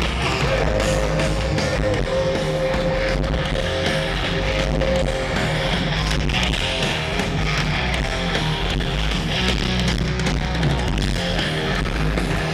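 Heavy metal band playing live: distorted electric guitars, bass and drums, with one long held note over the first few seconds.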